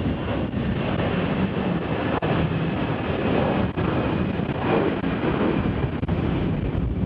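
Jet airliner engines running, a steady rumble with a faint high whine, mixed with strong wind buffeting the microphone.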